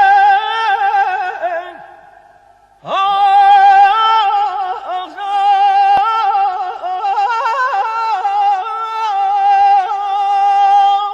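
A solo voice singing long wordless phrases in Persian song, the pitch wavering in quick ornaments. One phrase fades out about two seconds in, and a second long phrase starts about a second later.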